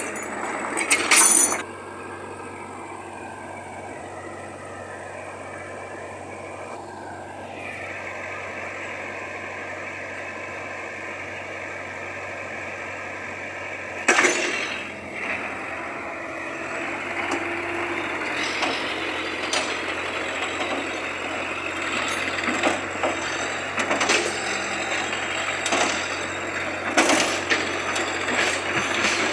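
Heavy machinery's diesel engine running steadily, with a few sharp metal clanks and knocks: right at the start, once about halfway, and several near the end.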